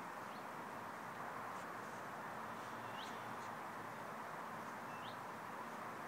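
A bird calling: short, near-identical rising chirps repeated about every two seconds over a steady background hiss.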